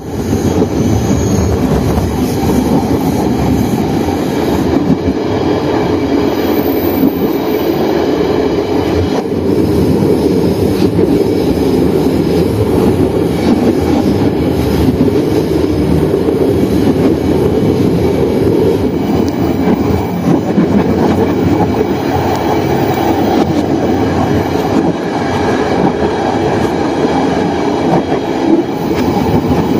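Passenger train running along the track: a steady noise of wheels on rail and the moving carriages.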